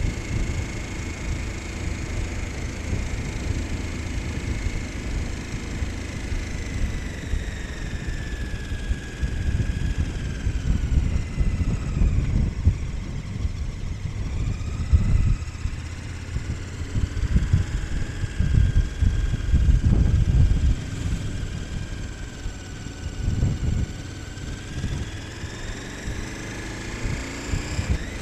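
KTM 1290 Super Adventure S V-twin engine under way, its note falling for a few seconds about a third of the way in, then climbing again past the middle. Wind buffets the microphone throughout with a heavy rumble.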